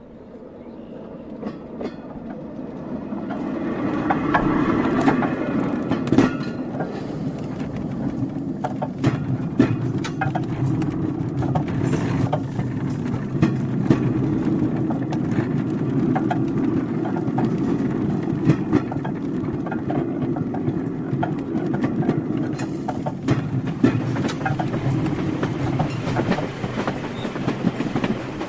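Train wheels clacking over rail joints with a steady rolling rumble from the carriage, fading in over the first four seconds and then running evenly, with scattered sharp clicks.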